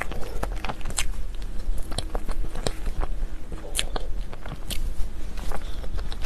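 Close-miked chewing and biting of cake and chocolate desserts: an irregular run of sharp wet mouth clicks and small crunches, over a steady low hum.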